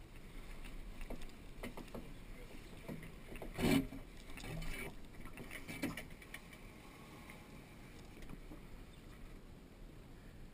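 Water and wind noise aboard a small sailboat, with a few light knocks and one louder thump about three and a half seconds in.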